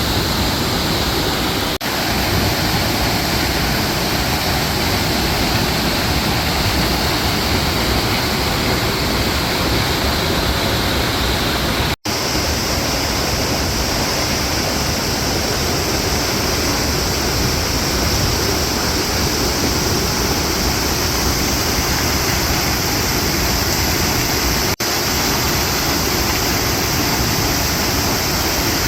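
Douglas Falls waterfall pouring: a loud, steady rush of falling water. The sound cuts out briefly three times, about 2, 12 and 25 seconds in.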